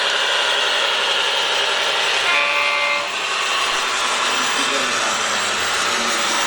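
Steady whirring whine of radio-controlled scale construction machines' electric motors and hydraulics. About two seconds in, a short steady horn-like tone sounds for under a second.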